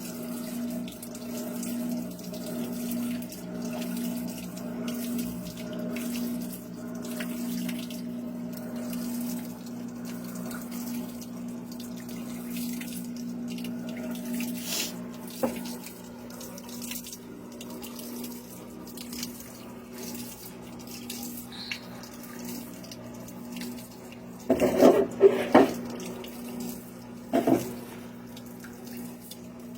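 Washing machine running, with water rushing and a steady low hum. A cluster of louder short sounds comes about 25 seconds in, and another near the end.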